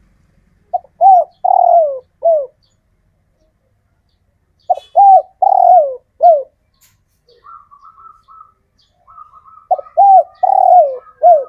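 Male spotted dove cooing: three phrases a few seconds apart, each of about four notes with a longer falling note near the end. A fainter, higher chirping trill comes between the second and third phrases.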